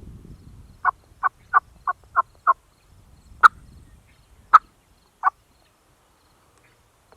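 Turkey yelps: a run of six short, evenly spaced notes, then three sharper, louder single clucks spaced about a second apart.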